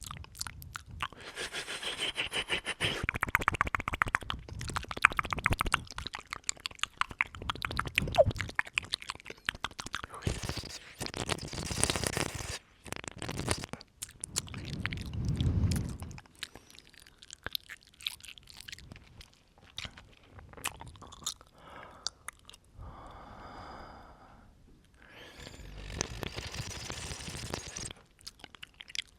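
Close-up ASMR mouth sounds: rapid wet clicks and smacks of the lips and tongue, with breaths blown at the microphone in between.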